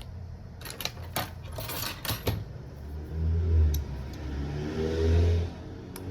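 A few sharp clicks and taps in the first couple of seconds, then a low engine hum that swells twice.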